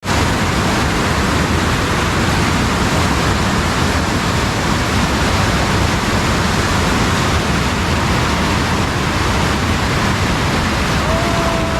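Steady, loud rush of flowing water, like a stream or drain running high after rain.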